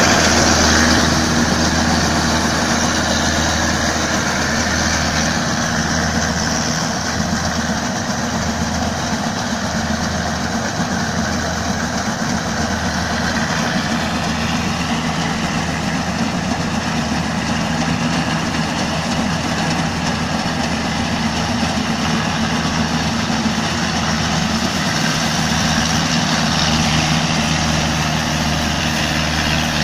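GY4LZ-1.0 small combine harvester running steadily while harvesting rice: an even, unbroken engine drone with mechanical noise over it.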